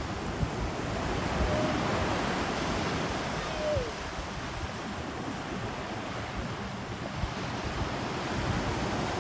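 Ocean surf washing onto a beach in a steady, rushing wash that swells a little a second or two in, with wind buffeting the microphone.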